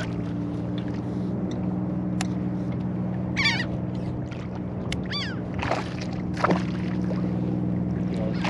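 Seabirds of a feeding flock working over bait, giving short harsh cries several times, with a cluster of calls about three and a half seconds in and again around five to six seconds in, over a steady low hum.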